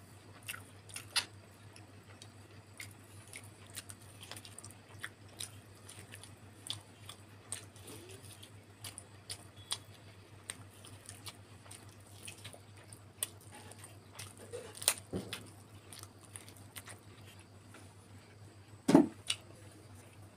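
Close-up mouth sounds of a person chewing and biting fried chicken lollipop: irregular small wet clicks and smacks, over a steady low hum. A louder dull knock comes near the end.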